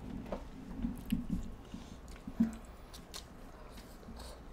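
Close-miked chewing and wet mouth sounds of two people eating soft, cheesy spaghetti squash with chicken, with a few faint clicks.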